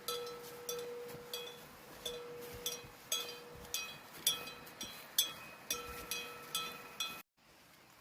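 Sharp strikes repeated about two a second, each with a short ringing tone, stopping abruptly near the end.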